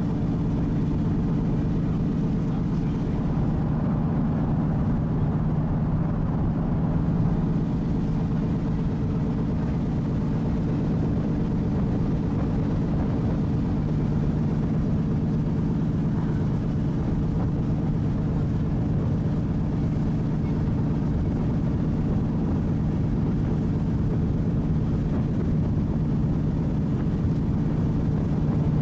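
A ship's engines and machinery running with a steady low drone that does not change.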